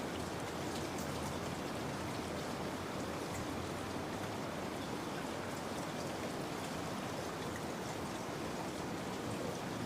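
Steady rain, with scattered drops pattering.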